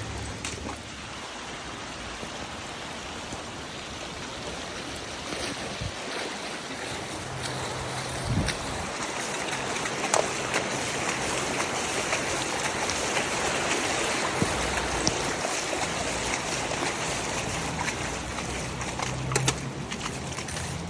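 Floodwater rushing and flowing as a steady wash of noise that grows somewhat louder partway through, with a low hum coming and going and a few faint knocks.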